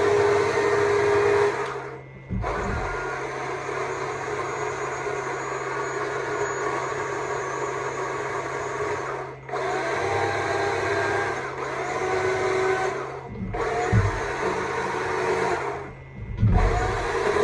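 Stihl MSA 200 C battery chainsaw running and carving wood, its electric motor and chain cutting out briefly four times as the trigger is let off and squeezed again.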